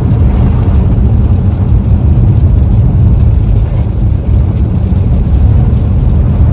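Steady low rumble of a car driving on slushy, icy road, heard from inside the cabin: tyre and road noise with the engine running underneath.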